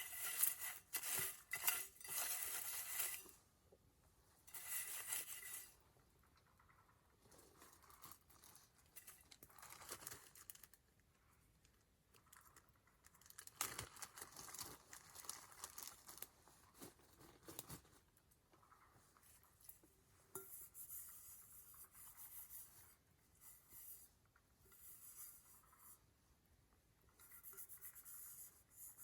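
Wood fire crackling and popping in irregular bursts, loudest in the first few seconds, then quieter scattered crackles.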